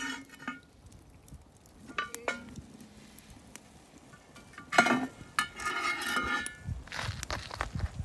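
Metal cookware and utensils clinking, with a couple of ringing knocks about two seconds in and a longer run of clinks and scrapes from about five seconds in, then a low rumble near the end.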